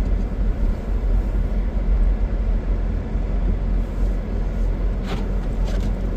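Car driving on a snowy road, heard from inside the cabin: a steady low engine and road rumble, with a couple of short clicks about five seconds in.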